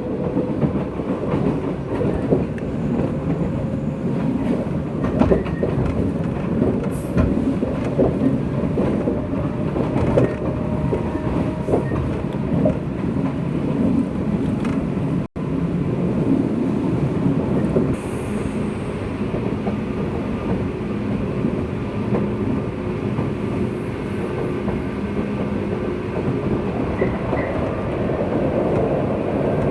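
Interior running sound of a JR West 201-series electric train, heard in a motor car while under way. The wheels clack over rail joints and a few steady tones from the running gear hum under the rumble, with a split-second dropout about halfway through.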